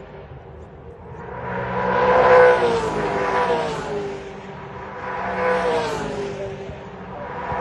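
V8 Supercars race cars going by at speed, two loud passes with a third arriving near the end, each engine's pitch dropping as it goes past.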